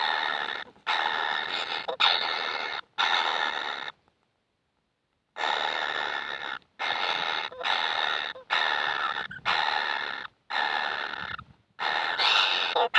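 Kingfisher chick giving harsh, rasping begging calls, about a dozen in a row, each roughly a second long, with a silent break of about a second before the middle of the run.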